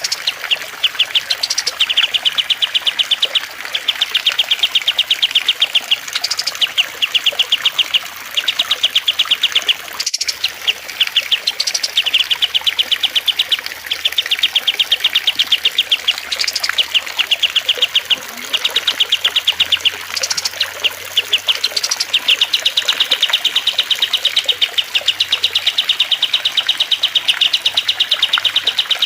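Caged songbird singing rapid, high chirping trills of about ten notes a second, in bouts of one to two seconds repeated with short gaps. A single sharp click about ten seconds in.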